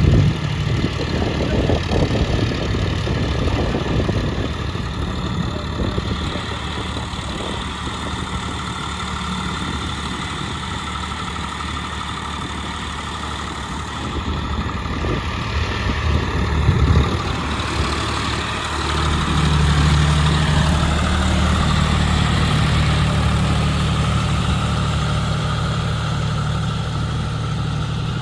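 Heavy diesel machine engine running steadily. The engine grows louder about two-thirds of the way through, as if revved or put under load.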